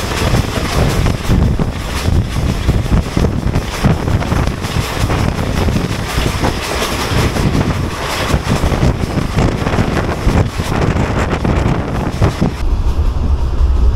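Moving passenger train: wheels clattering over the track with a heavy rumble and wind buffeting the microphone. Near the end the rushing hiss falls away, leaving a steadier low rumble.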